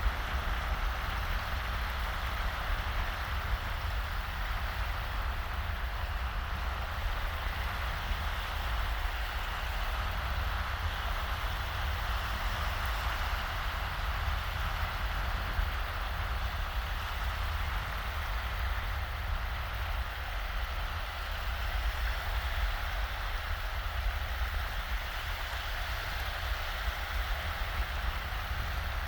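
Small, shallow waves washing steadily onto a sandy beach, an even hiss of water without distinct breakers, over a low rumble of breeze on the microphone.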